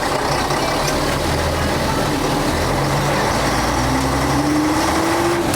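Engine of a 1966 Scania Vabis BF56 bus running, heard from inside, with a whine that rises in pitch over the last second and a half.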